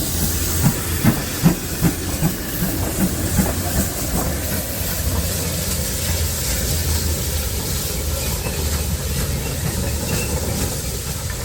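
Steam locomotive hissing steam, with a run of sharp beats about two or three a second in the first four seconds that then die away, over a steady low rumble.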